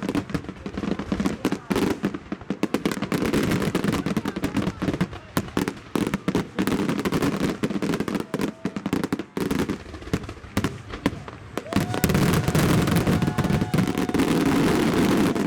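Fireworks display: a dense barrage of shells bursting and crackling over a continuous low rumble. A steady held tone comes in about twelve seconds in.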